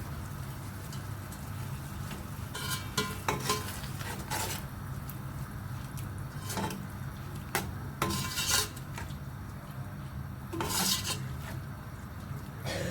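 A metal spoon scraping and clinking against a cooking pot while a masala is stirred, in irregular strokes over a steady low hum.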